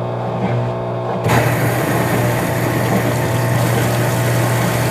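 RCA RPW160-B portable washing machine's drain pump running with a steady hum; about a second in, water suddenly starts gushing out through the drain as it pumps out the rinse water.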